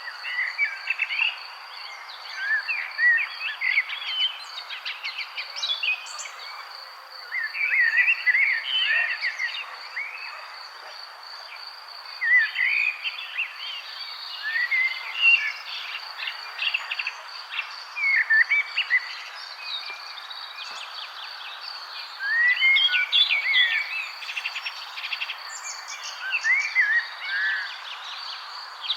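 Songbirds singing short, rapid warbling phrases every few seconds, over a steady high-pitched insect trill and a constant soft hiss of background noise.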